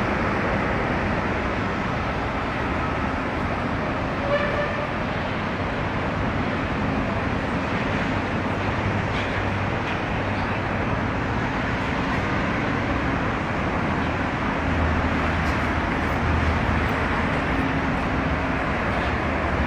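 Steady machinery noise, with a short high tone about four seconds in.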